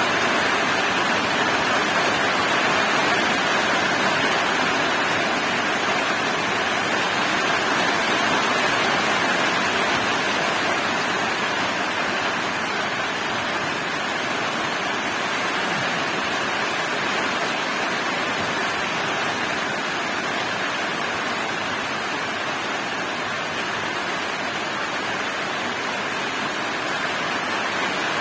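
Heavy rain pouring steadily, an even rushing hiss.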